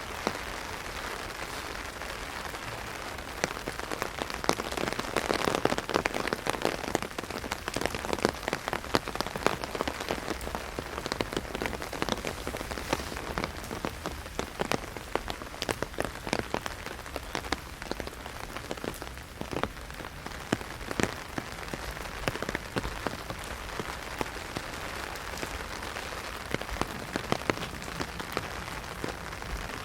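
Heavy rain hitting an umbrella: a steady hiss full of sharp individual drop strikes. It comes harder from about four seconds in until about halfway through, then eases a little.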